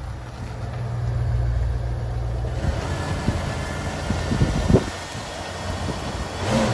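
Ford Mustang's engine running with a steady low rumble; about two and a half seconds in, a broader hiss rises over it.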